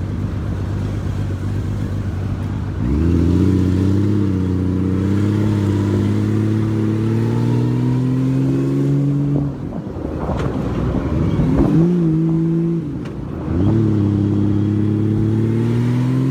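Honda Valkyrie's flat-six motorcycle engine under way: a low rumble, then about three seconds in it pulls hard with its pitch climbing steadily for several seconds. It eases off about nine and a half seconds in, pulls briefly again, dips, and climbs once more near the end, with wind and road noise underneath.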